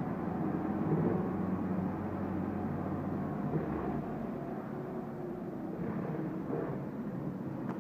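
Volkswagen Polo's 1.4-litre four-cylinder petrol engine (code BBY) running with the car standing still, heard from the driver's seat. Its speed eases down from a raised idle of about 2,500 rpm toward normal idle.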